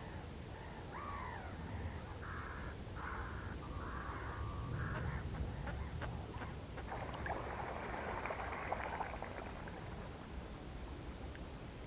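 Whooper swans calling: a run of short, hoarse calls about twice a second, one sliding down in pitch, then a denser noisy patch of calling near the middle, carried over open water with a low steady rumble underneath.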